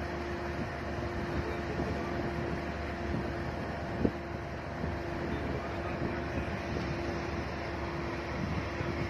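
Car driving on a motorway: steady road and wind noise with a steady hum, and one sharp click about four seconds in.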